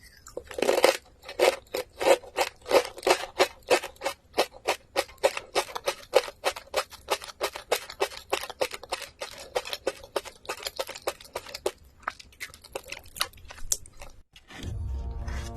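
Crunchy food chewed close to the microphone in a steady rhythm of about three crunches a second, loud at first and slowly getting softer. Music comes in near the end.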